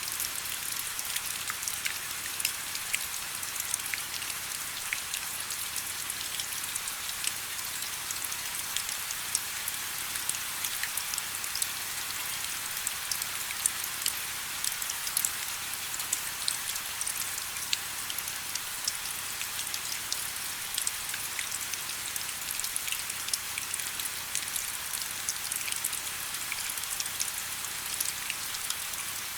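Steady rain falling, a constant hiss with many separate drops pattering close by.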